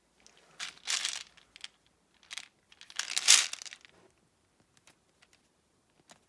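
Crinkling of handled packaging in a few short bursts, the loudest about three seconds in, followed by a few faint ticks.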